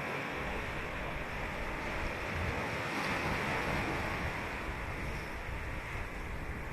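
Ocean surf washing onto a sandy beach, a steady wash that swells a little in the middle, with some wind buffeting on the microphone.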